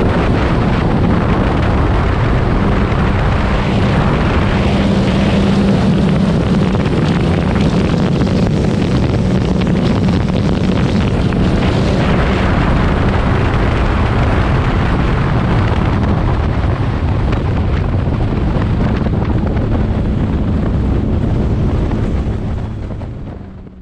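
Supercharged Sea-Doo RXP-X 300 jet ski with a Riva Racing aftermarket exhaust running at high speed: a steady engine drone under heavy wind noise on the microphone. Fades out near the end.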